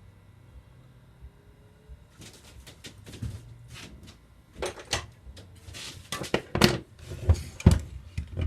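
Tools and parts being moved about and set down on a workbench, making a run of knocks and clatters. It starts about two seconds in, with the loudest knocks in the second half.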